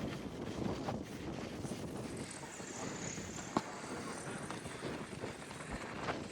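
Outdoor background noise with wind buffeting the microphone, and a single sharp click about three and a half seconds in.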